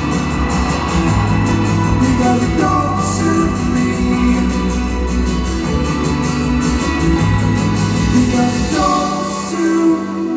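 Live rock band playing in a large hall, with electric guitar, bass and singing over sustained notes; the low end drops out near the end as the song finishes.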